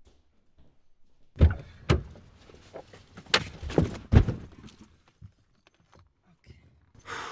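A series of sharp thuds and knocks, about five loud ones in under three seconds with fainter taps between them, then a burst of rushing noise near the end.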